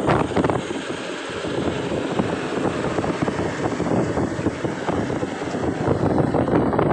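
Truck running on the road, engine and road noise mixed with wind buffeting the microphone.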